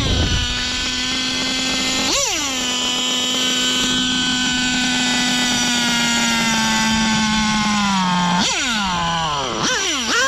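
Serpent Nova Mega SX21 nitro engine in a 1/8-scale RC car, really loud. It holds a steady fast idle, is blipped up and back once about two seconds in, and its idle sags slightly near the end before several quick throttle blips.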